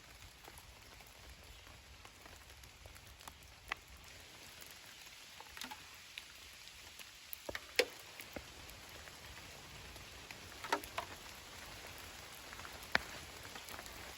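Light rain falling: a steady soft hiss with scattered single drops ticking sharply on nearby surfaces, a few of them louder, about a third of the way through, three-quarters through and near the end.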